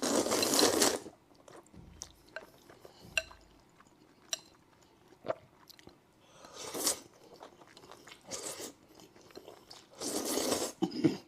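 Close-up eating sounds: a person eating noodles with chewy spoon worm pieces, in several noisy bursts, one loud at the start and others about two-thirds of the way in and near the end, with small mouth clicks between.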